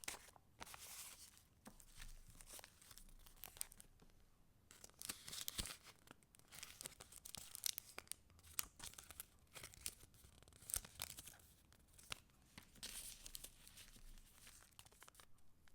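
Junk-journal paper pages rustling and crinkling as they are handled, in quiet irregular bursts with sharp clicks.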